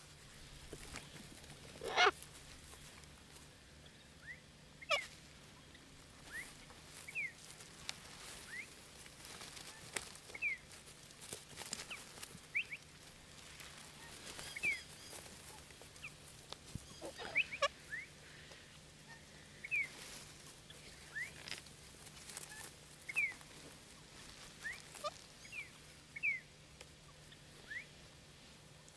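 Wild birds calling close by as cockatoos forage on the ground: many short rising chirps at irregular intervals, a few louder harsh calls (the loudest about two seconds in), and scattered light clicks.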